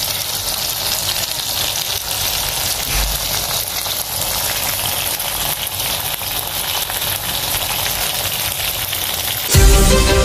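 Chicken, mushroom and bell pepper stir-fry sizzling in a hot wok, a steady hiss. Louder music starts suddenly near the end.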